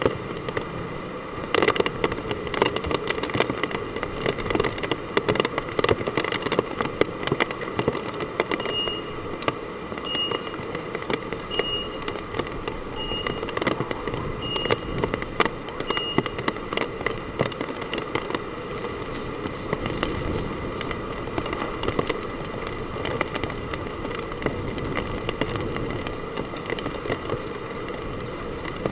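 Heavy typhoon rain pelting hard surfaces: a steady, dense crackle of drops.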